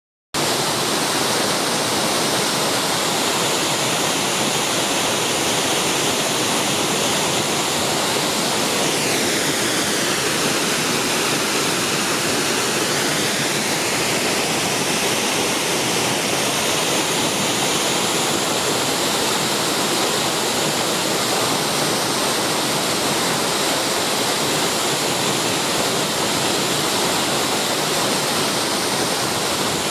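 Waterfall: a steady, loud rush of falling water, its tone shifting slightly about a third of the way in.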